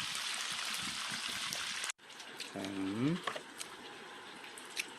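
Chicken on its second fry in a pot of hot oil: an even, loud sizzle that cuts off suddenly about two seconds in. After the cut it is quieter, with a brief voice and a few light clicks.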